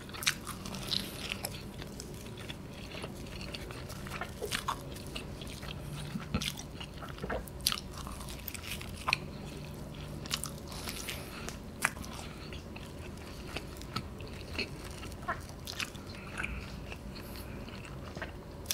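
Close-miked chewing of a mouthful of cheese-laden pizza and bread crust, with small wet mouth clicks and lip smacks coming irregularly throughout.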